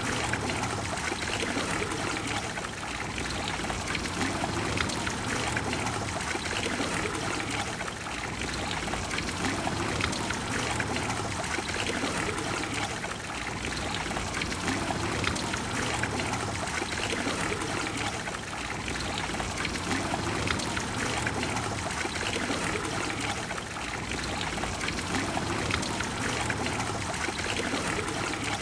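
Water of the Trevi Fountain cascading and splashing into its basin, a steady continuous rush with slight swells.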